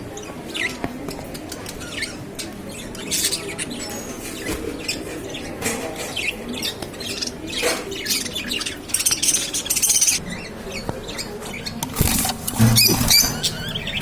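Small pet cage birds (a mixed colony of budgies, finches and lovebirds) chirping and calling, many short overlapping chirps scattered throughout, busiest about twelve seconds in.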